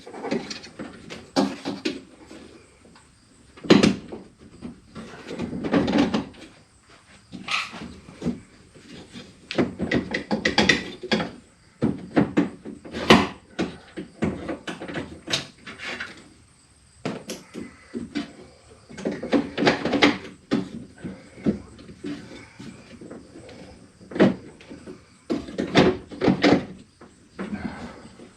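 Irregular metallic knocks, clanks and scrapes as a power window regulator and motor assembly is worked into a pickup's door shell and bumps against the door's sheet metal and the glass guide rail.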